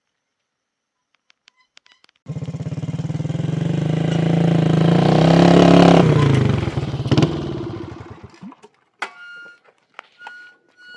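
An engine comes in abruptly and runs, growing louder for a few seconds, then drops in pitch and fades away. A few clicks follow near the end.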